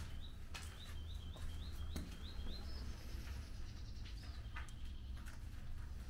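A small songbird singing a quick run of short upward-sliding notes, about four a second, ending a little before halfway with a higher note. Under it there is a steady low rumble and a few soft footsteps.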